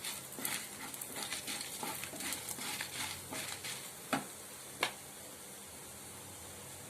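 Spatula stirring and scraping in a frying pan, with many light clicks and two sharper clicks about four and five seconds in, then a steady faint hiss.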